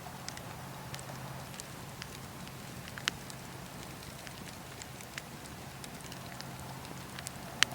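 Campfire burning: a steady low hiss and rumble with scattered sharp crackles and pops. The loudest pops come about three seconds in and just before the end.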